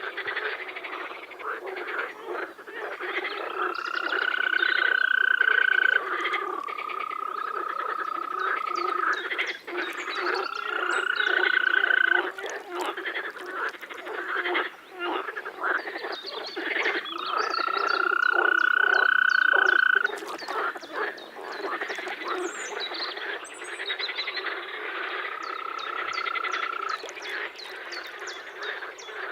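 A chorus of frogs: dense, continuous croaking and clicking calls. Over it come long, steady trilling calls, each held two to three seconds and rising slightly in pitch, repeated about five times a few seconds apart.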